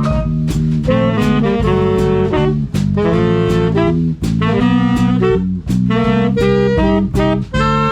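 Swing band playing a jazz tune: saxophones and brass carry the melody over a steady beat, with drum or cymbal strikes about twice a second.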